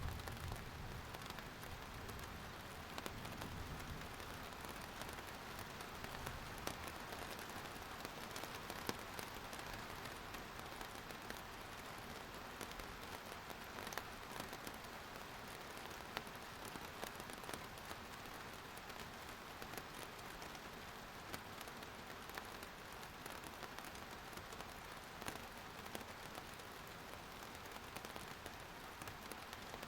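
Steady rain falling on surfaces, a continuous hiss with scattered individual drop ticks, and a low rumble fading out in the first few seconds.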